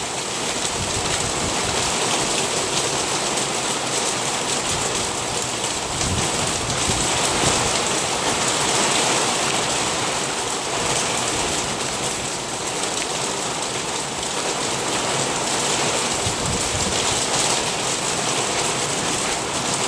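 Heavy rain pouring down steadily in a thunderstorm, pelting the deck and the phone itself, with a few low rumbles swelling up partway through.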